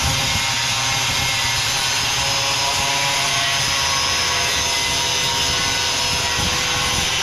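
Electric angle grinder running steadily on steel, a constant whining motor noise.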